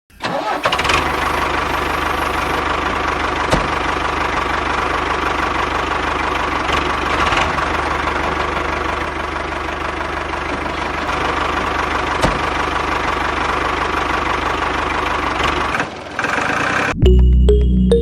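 A tractor-type engine starts abruptly and runs at a steady, even speed. It dips briefly near the end, and then music takes over.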